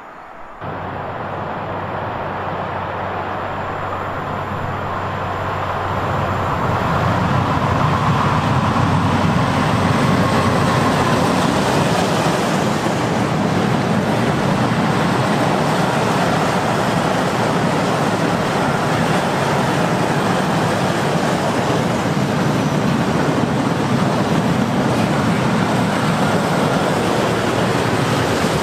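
Freight train passing at close range: steel wheels rolling and clattering over the rails under a string of car-transporter and tank wagons. The noise comes in suddenly about half a second in, grows louder over the next few seconds, then holds as a steady loud rumble.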